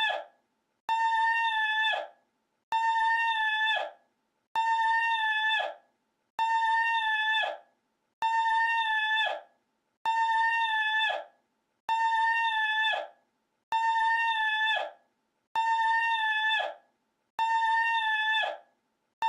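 A single short, high-pitched held cry, looped: the identical steady call repeats about every two seconds, each lasting about a second and tailing off at the end, with silence between.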